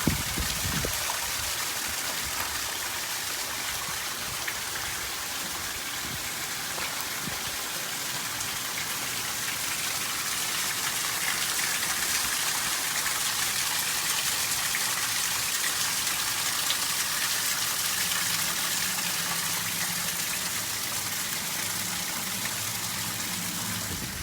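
Heavy rain from a tropical storm falling steadily, an even hiss that holds throughout.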